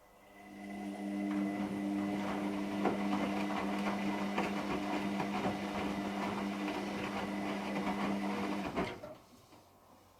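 Hotpoint washing machine running mid-programme: a steady motor hum with clicking and rattling. It starts right away and stops about nine seconds in.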